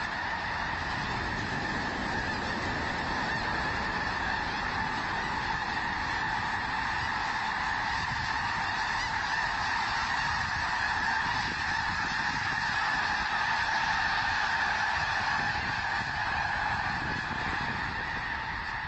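A large flock of birds calling all at once: a dense, unbroken chorus of many overlapping calls, swelling a little past the middle.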